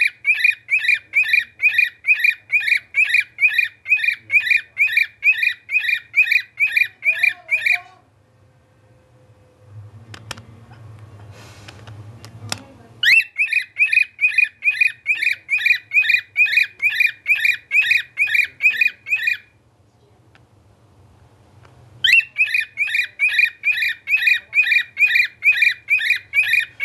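Pet bird whistling a tune: one high note repeated quickly and evenly, about three times a second, in three long runs broken by short pauses. A few clicks and some rustling fall in the first pause.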